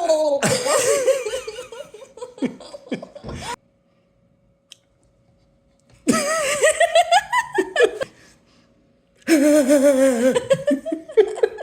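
People laughing hard in three bursts, with short quiet gaps between them.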